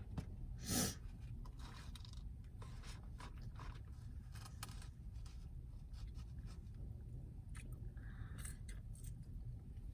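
Eating sounds: chewing, with scattered small clicks and scrapes, the loudest about a second in, over a steady low hum.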